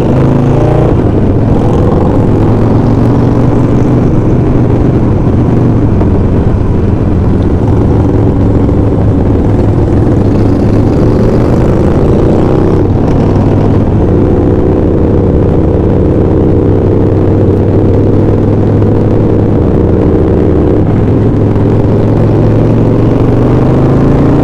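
Motorcycle engine running steadily at freeway speed, heavily buffeted by wind on the microphone; the engine note shifts a little partway through.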